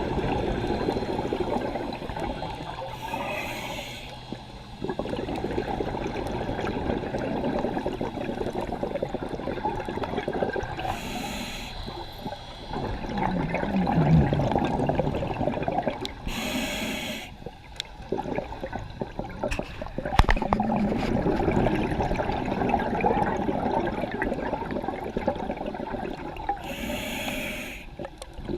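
Scuba diver breathing through a regulator underwater: four short hissing inhalations, each followed by a long burbling stream of exhaled bubbles.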